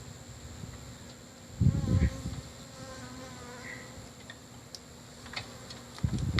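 Honey bees buzzing around an opened hive, a faint wavering drone. Dull low thumps break in about a second and a half in and again near the end.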